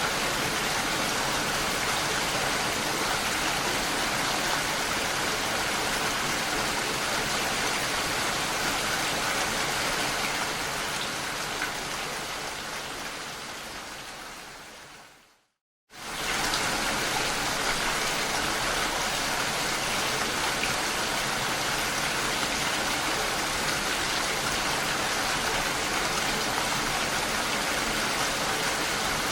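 Steady rain falling. About halfway through, the rain fades away over a few seconds to a moment of silence, then quickly comes back at full level: the joint where the rain recording loops.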